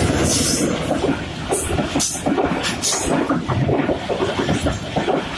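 Passenger train coaches rushing past at speed close by, their wheels clattering and rumbling on the rails amid a loud rush of moving air.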